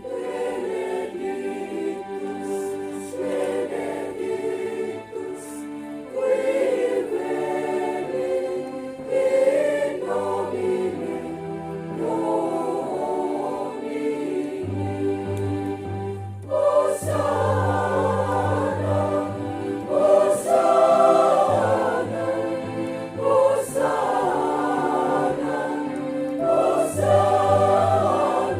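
Church choir singing a sacred song in several voices, with a low held bass line underneath.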